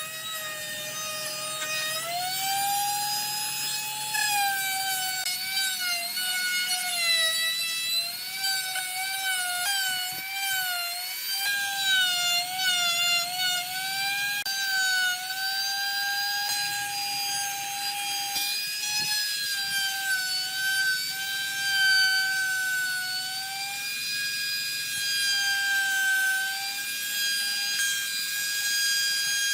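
High-speed power tool running with a continuous whine whose pitch dips and wavers as it is loaded against the work.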